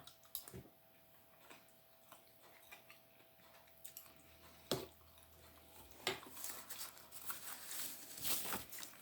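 Faint eating sounds: a person chewing with scattered small clicks, one sharper click about halfway through, then a denser run of crunchy chewing noises over the last few seconds.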